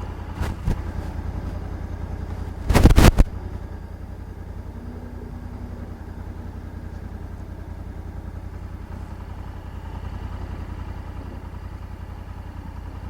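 Honda Africa Twin 1100 DCT's parallel-twin engine idling with a steady, even low beat. A brief loud noise breaks in about three seconds in.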